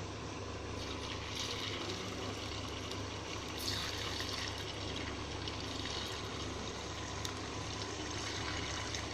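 Marinated chicken pieces deep-frying in hot oil in a kadai: a steady sizzle with light crackling, a little louder briefly a little after three and a half seconds.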